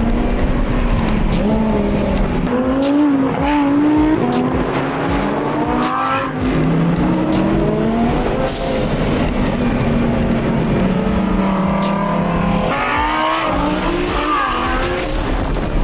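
Sports car engine accelerating hard, its pitch climbing and dropping several times as it shifts through the gears, over a steady low road drone.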